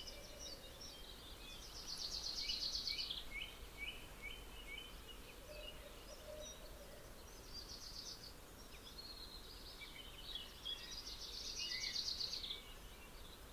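Faint birdsong: scattered chirps and two rapid trills, one about two and a half seconds in and one about twelve seconds in, over a low steady hum of room tone.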